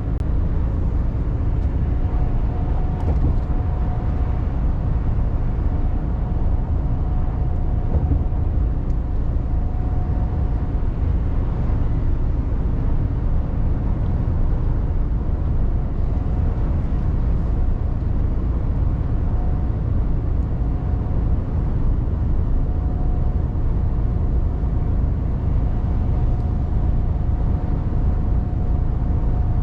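Mercedes Actros diesel truck driving, a steady low engine and road rumble. A faint steady whine comes in for stretches over it.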